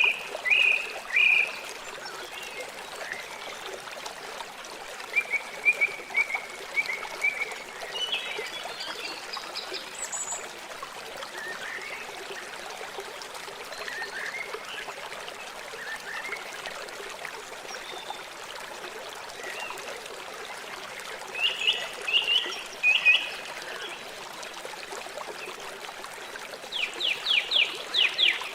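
A river flowing steadily, with short bird chirps coming in scattered clusters over the water, and a rapid trill of about a dozen pulses near the end.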